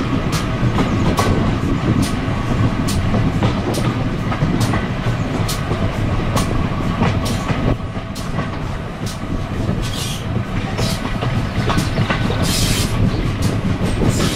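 Steam-hauled heritage passenger coach running along the line, heard from an open carriage window. The wheels beat out a regular clickety-clack over the rail joints above a steady rumble and wind on the microphone. A short hiss comes near the end.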